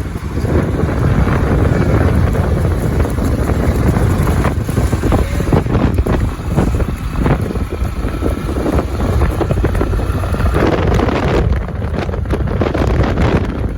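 Wind buffeting the microphone: a loud, rough, steady rumble with scattered short crackles.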